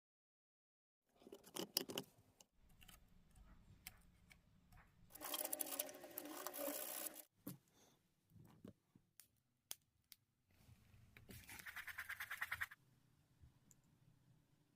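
Faint scratching and scraping with scattered clicks from hand work on a Bosch GST 140 BCE jigsaw under repair, in two longer stretches: one about five seconds in and one near the end with a quick run of ticks.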